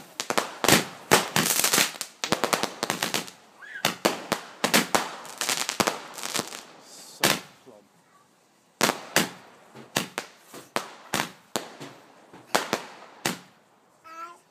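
Fireworks going off in a rapid series of bangs, densest at first, then thinning to single reports with a short lull in the middle, the last bangs coming near the end.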